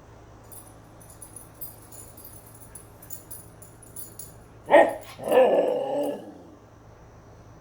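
Husky vocalizing impatiently, eager to go: a short sharp yelp a little before five seconds in, then a longer drawn-out 'talking' vocalization of about a second. Faint high-pitched clicking before it.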